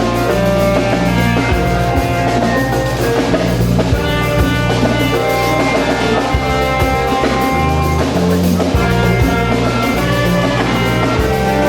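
Instrumental church band music with drums and a bass line.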